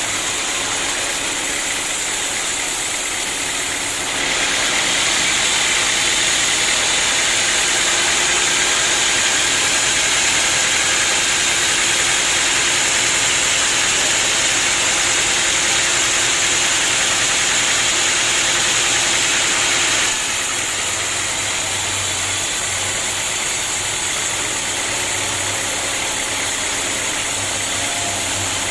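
Sawmill running steadily. From about four seconds in to about twenty seconds it gets louder and hissier, as the saw blade works through the wood, then drops back to its steady running.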